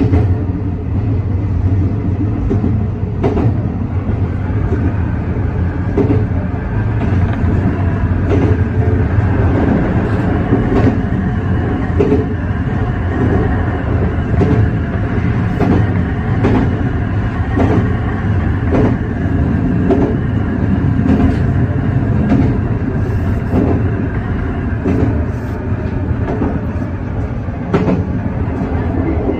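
Meitetsu 300 series electric train running along the track, heard from inside the front of the car: a steady rumble from wheels and rails, with the wheels clicking over rail joints about once a second. A higher whine comes in a few seconds in and fades near the end.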